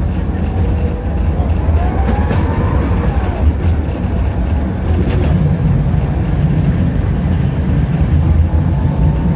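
Tram running along the track, heard from inside the car: a steady low rumble of wheels and running gear with a few clicks, and a brief wheel squeal that rises and falls about two seconds in.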